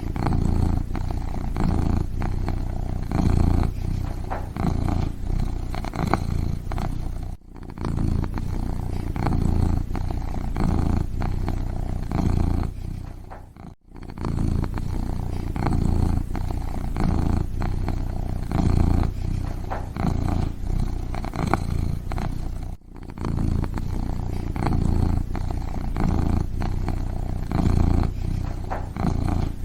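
Kitten purring close up in a steady, pulsing low rumble. It breaks off briefly three times.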